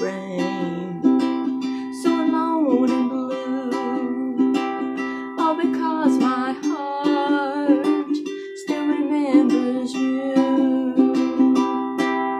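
Tenor ukulele strummed in a steady rhythm of chords, with a voice carrying a wavering melody over it; the voice drops out briefly a little past the middle.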